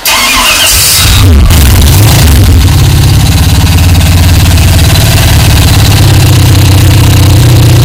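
Hydrogen-fuelled 350 small-block Chevy V8 starting up. It fires with a loud burst, the revs fall away over the next second or so, and it settles into a steady idle through its mufflers while the hydrogen feed is adjusted by hand.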